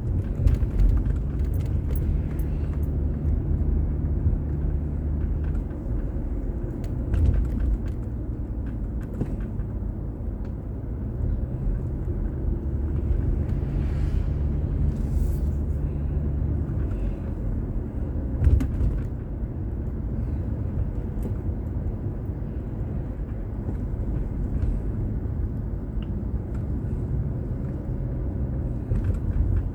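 Car driving in traffic, heard from inside the cabin through a dashboard drive recorder: a steady low engine and road rumble with a few light thumps, one louder about two-thirds of the way through.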